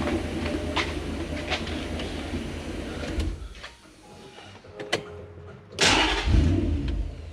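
Starter cranking a Toyota 1UZ-FE V8 that turns over without firing: about three seconds of cranking, a pause, then a second short crank near the end. The fuel pump is not priming, so the engine gets no fuel.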